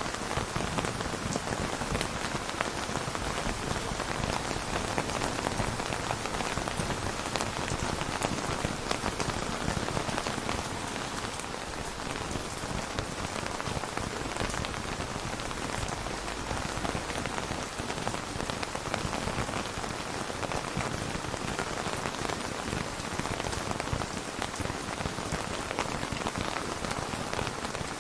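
Steady rain falling on a surface, an even hiss with scattered drops ticking, unchanging throughout.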